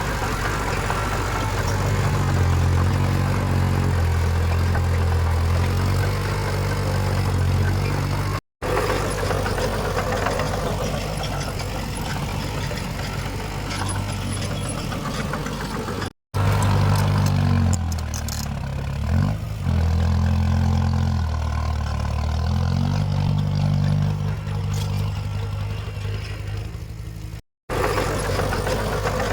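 Heavy diesel engines of earthmoving machines running under load, their engine speed rising and falling, across several clips joined by abrupt cuts.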